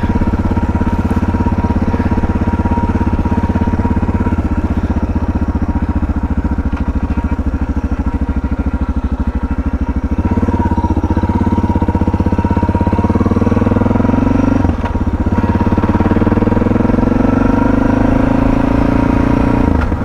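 Suzuki DR650's single-cylinder engine ticking over steadily, then pulling away about halfway through with the revs rising, a brief dip as it changes gear, and the revs climbing again near the end.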